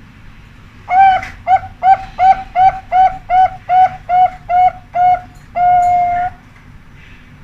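Zebra dove (perkutut) song: a quick run of about eleven short, evenly spaced coos on one pitch, closed by a single longer held end note, the 'ujung' that perkutut contests judge.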